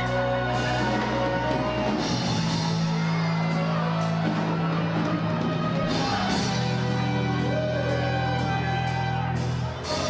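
Live band with a horn section playing, loud and steady.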